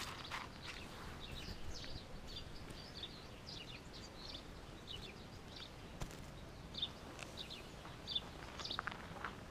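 Small birds chirping: short, high notes scattered irregularly over a faint outdoor background, with a single sharp click about six seconds in.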